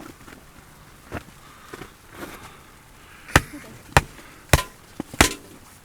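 Wood being chopped: after a light knock, a run of about four sharp, loud blows a little over half a second apart starts a few seconds in, with a smaller tap among them.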